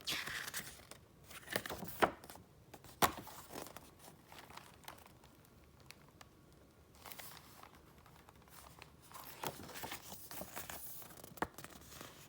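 Paper being handled up close: spells of rustling and crinkling, with a few sharp taps and quieter stretches between.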